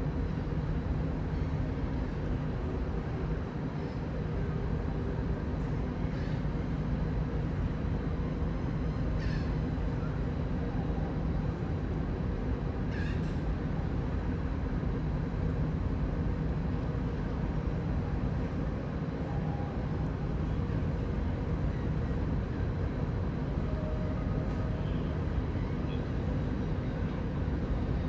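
A steady low mechanical hum with a few level tones in it, unchanging throughout. A few short high chirps stand out faintly about nine and thirteen seconds in.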